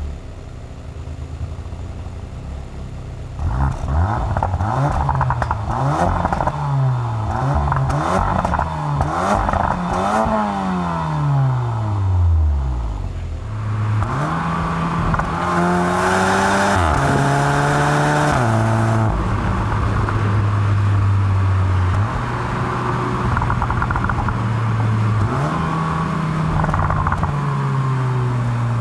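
Base 2019 Porsche Macan's turbocharged four-cylinder engine, heard from inside the cabin. The engine revs up and down several times, then pulls through a run of gear changes and settles into a steady cruise.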